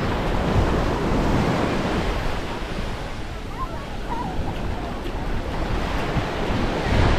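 Waves washing onto a sandy beach, a steady wash of surf, with wind rumbling on the microphone.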